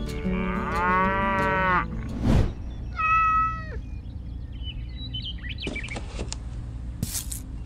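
Animal calls: a long call whose pitch wavers, then a shorter high-pitched call about three seconds in, with a single thump between them and a brief scrape near the end.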